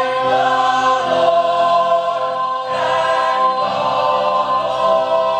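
Ensemble chorus of stage singers holding long sustained chords in a gospel-style musical number, with the chord changing about two and a half seconds in.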